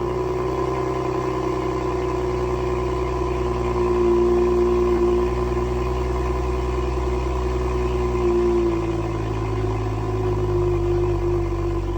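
BMW 640i's turbocharged 3.0-litre straight-six running at its raised cold-start idle just after starting, a steady drone. About eight and a half seconds in the idle settles slightly lower.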